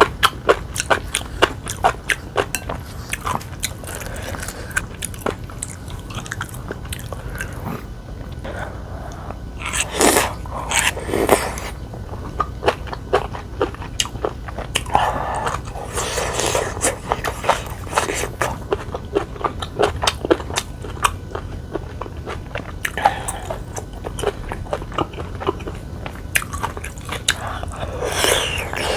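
Close-miked eating: a person chewing and biting food, with many short, crisp mouth clicks.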